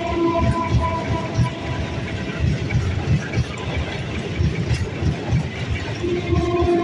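BEML-built electric multiple-unit commuter train passing close by: a steady rumble of wheels on rails broken by repeated clattering thumps, with a steady whine in the first second and again from about six seconds in.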